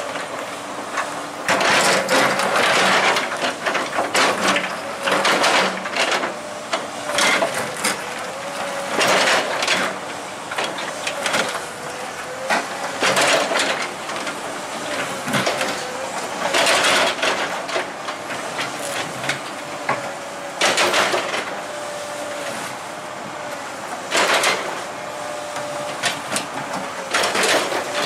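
Heavy machinery at work: an engine runs under a wavering whine, with irregular loud clanks and scraping every second or two.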